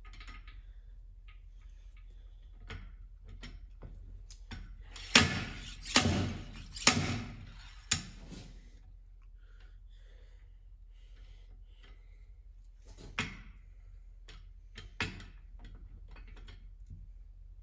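Slide hammer striking as it pulls a rust-seized bearing and gears along the splined shaft of an Allis-Chalmers B transmission. Four hard metal-on-metal strokes come about a second apart midway through, with a few lighter knocks before and after.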